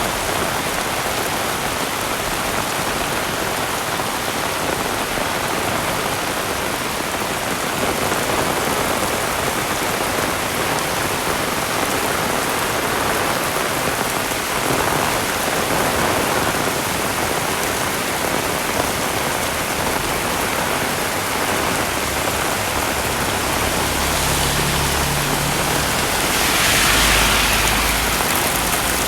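Heavy rain falling steadily, an even hiss of water on surfaces. Near the end a louder rush swells up over a low rumble, then eases.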